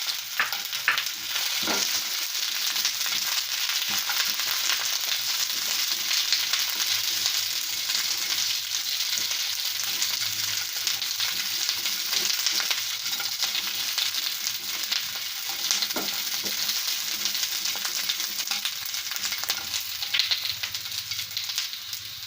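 Diced onion and capsicum sizzling steadily in a little oil in a non-stick pan, with a few short scrapes and clicks of a spatula stirring them.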